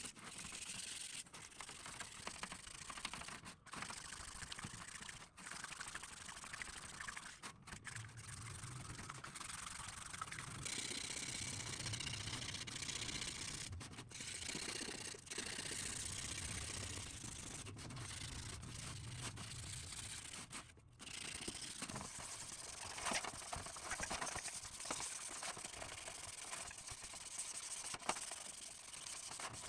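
Brushing and scraping on old ceiling-fan parts, cleaning off dirt and rust, in a series of short clips with abrupt cuts between them.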